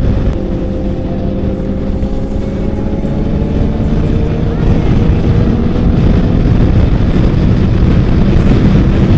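Motorcycle engine running on the move. Its note sinks slightly over the first few seconds, then holds steady, under heavy wind rush on the microphone.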